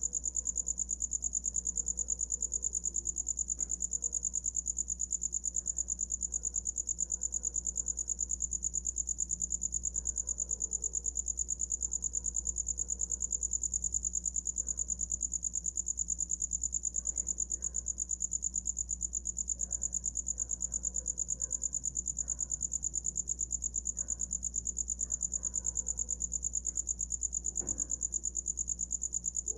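Cricket singing a steady, high-pitched trill of fast, even pulses.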